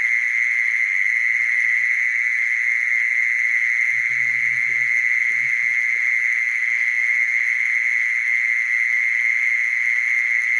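Mole cricket singing: a continuous high-pitched trill, steady in pitch and loudness, with no breaks.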